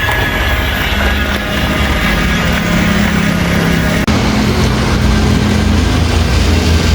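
A vehicle engine running steadily with a low rumble, like a truck's.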